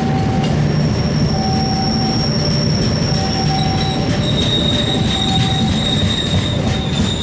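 A train passing on the rails, its steel wheels squealing in long, thin, high tones over a steady low rumble, with a second squeal joining about four seconds in. A mid-pitched tone sounds on and off about every second and a half.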